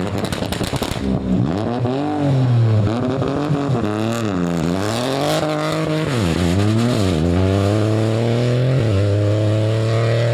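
Rally car engine at full effort on a stage: a few sharp crackles in the first second, then the revs climb and drop several times as it changes gear and lifts off, before a long steady climb through the last few seconds.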